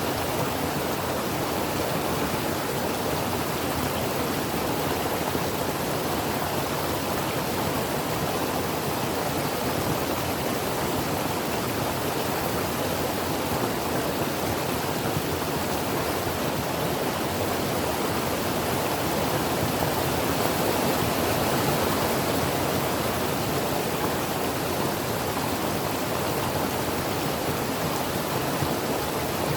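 Creek water flowing steadily over rocks, a constant rushing with no breaks.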